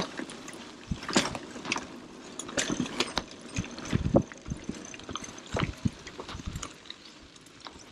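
Mountain bike rattling over a rough trail: irregular clicks and knocks over a steady hiss.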